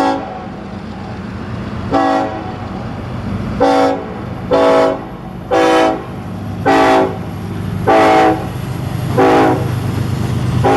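Approaching Norfolk Southern diesel locomotive sounding its multi-tone air horn in a horn show: about nine short and longer blasts roughly a second apart, over the steady low rumble of the locomotive's engine.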